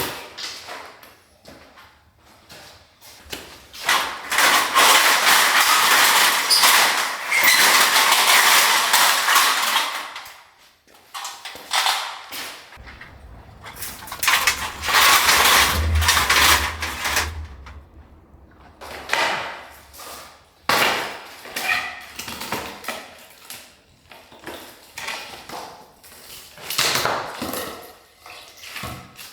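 Demolition rubble being cleared: long stretches of dense rattling and clattering as debris is moved and tipped, with separate knocks and thuds in between.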